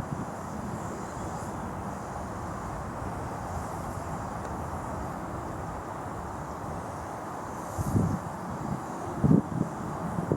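A 7¼-inch gauge miniature steam locomotive: a steady rushing noise, then, about eight seconds in, a few heavy low puffs of exhaust at uneven spacing.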